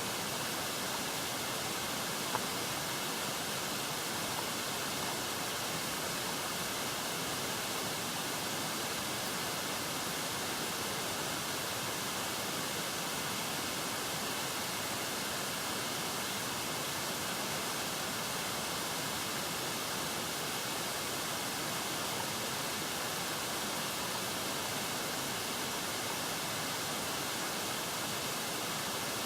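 Steady, unchanging hiss of wind and water noise on the microphone of a kayak-mounted camera.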